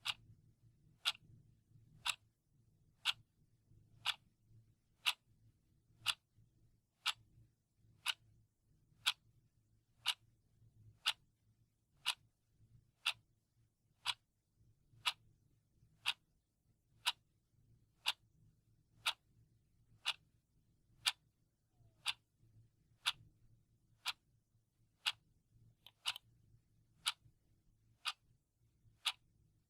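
Clock ticking steadily, one sharp tick each second, over a faint low hum.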